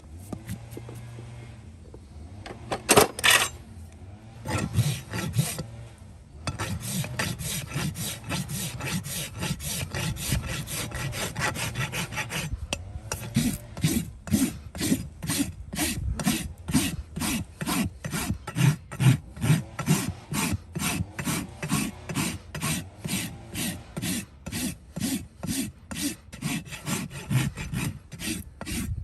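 Farrier's rasp filing a horse's hoof: a few separate strokes at first, then continuous rasping, settling about halfway through into an even rhythm of about two strokes a second.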